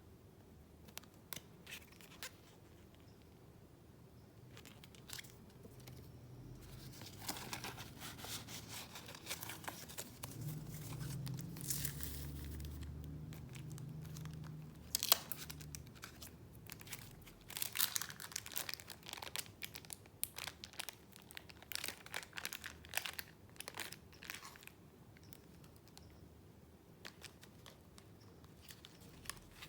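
Paper being handled: scattered soft ticks, then a sustained rustling from about a quarter of the way in, followed by a run of sharp crinkles and crackles that tapers off near the end, as junk-journal papers and packaging are moved and unfolded.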